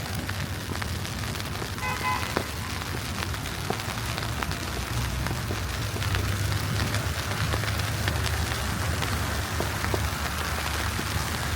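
Snowstorm street ambience: a steady hiss with scattered ticks of wet snow falling on the street, over a low city rumble. A brief high beep sounds about two seconds in.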